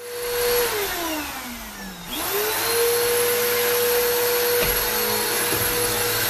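An electric motor runs with a loud rush of air. Its whine drops in pitch over the first two seconds, then climbs back within a fraction of a second and holds steady.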